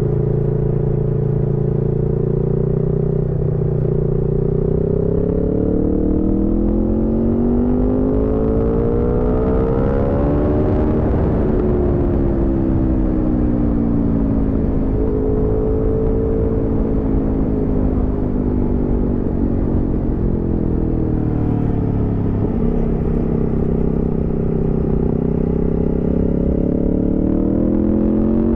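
Aprilia Tuono V4's V4 engine pulling on the road. It holds a steady pitch, rises through a long acceleration, eases off, then climbs again near the end.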